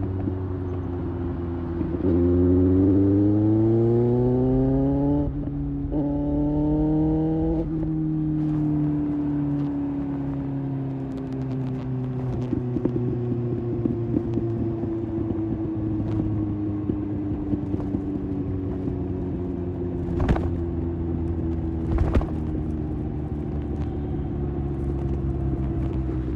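Kawasaki ZX-6R inline-four engine accelerating, its pitch climbing and breaking twice for upshifts about five and eight seconds in, then falling slowly and steadily as the bike eases off. Two sharp clicks come near the end.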